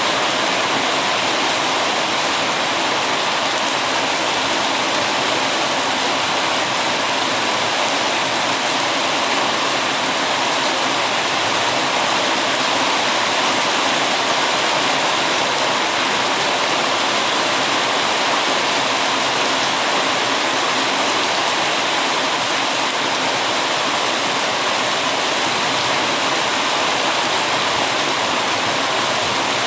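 Heavy rain falling steadily, a dense even hiss that does not change.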